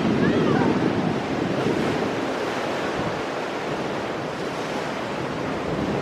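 Ocean surf breaking and washing over shoreline rocks, loudest in the first second and then easing into a steadier wash, with wind buffeting the microphone.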